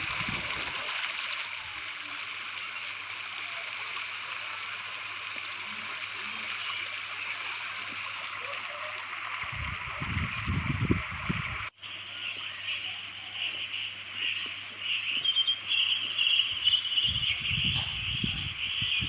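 Steady outdoor ambience of even, water-like hiss. It cuts out for an instant about twelve seconds in and comes back with a high chirping chorus. Low muffled rumbles come now and then, near the start, about ten seconds in and near the end.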